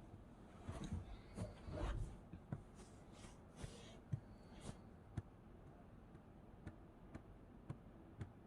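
Soft rustling and swishing in the first few seconds, then a scattering of faint light clicks and taps.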